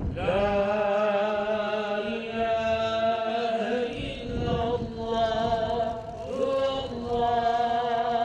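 A man's voice chanting an Islamic religious recitation in long, held, ornamented melodic lines, pausing briefly twice.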